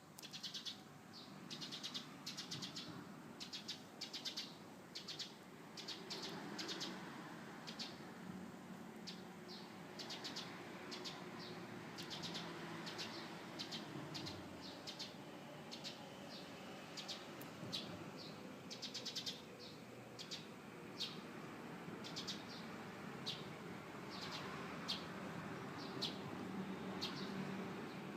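Small birds chirping: many short high chirps and quick trills, repeated irregularly, over a faint low background noise.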